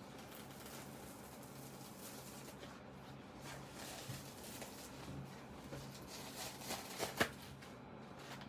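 Rustling and scraping of a synthetic-leather zippered Bible cover being handled and taken apart, with scattered small clicks and one sharper click about seven seconds in.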